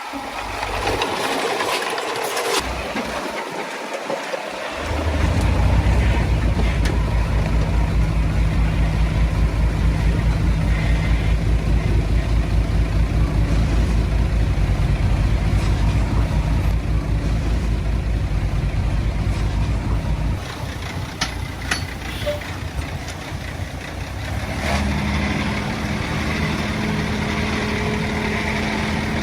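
Heavy diesel machinery engine running close by. About five seconds in it becomes a loud, rapidly pulsing engine; the pulsing stops about two-thirds of the way through, and near the end a steadier engine note takes over.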